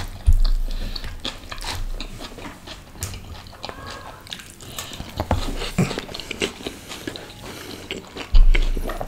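Close-miked eating: wet chewing and mouth clicks as a handful of mixed vegetable curry is eaten. A few low thumps come near the start, around the middle and near the end.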